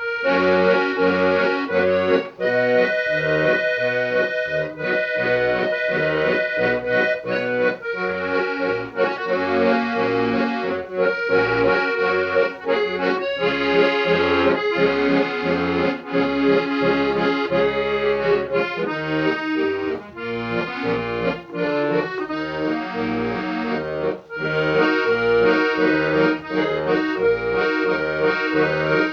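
Accordion playing a tune. The melody runs over a steady, regularly pulsing bass accompaniment.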